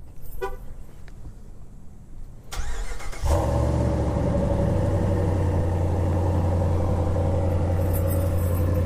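2015 Ram 1500's 5.7-litre Hemi V8 starting on its stock exhaust: a brief crank, then the engine catches about three seconds in and idles steadily.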